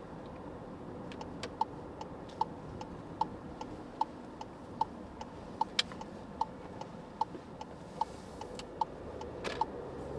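Car turn-signal indicator ticking steadily, about two and a half ticks a second, starting about a second in and stopping near the end, over steady road and engine noise inside the cabin.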